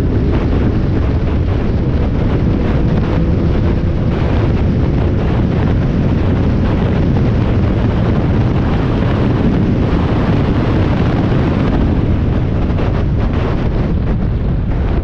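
Onboard sound of a Spec Miata race car at speed: its four-cylinder engine running under load, mostly buried under heavy wind and road noise buffeting the microphone.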